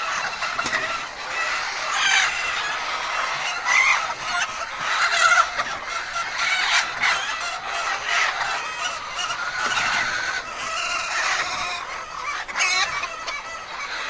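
A flock of laying hens clucking and calling, many birds overlapping without a break.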